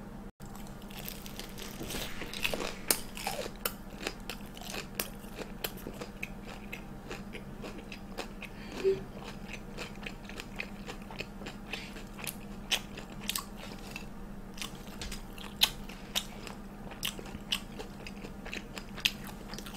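Biting and chewing a Myungrang Korean hot dog, a sausage on a stick in a crisp, deep-fried breaded crust: many sharp crunches of the crust as it is bitten and chewed.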